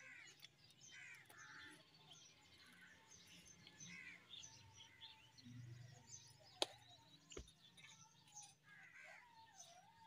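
Faint bird calls and chirps, several birds calling on and off. A sharp click comes about two-thirds of the way through, followed by a dull thump.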